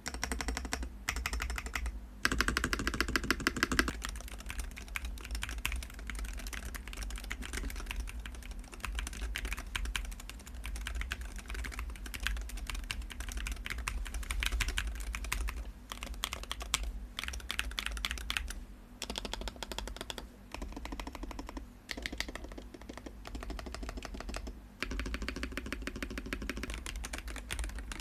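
Magnetic Hall-effect switch keyboard being typed on rapidly and continuously, a dense run of key clacks with a few brief pauses.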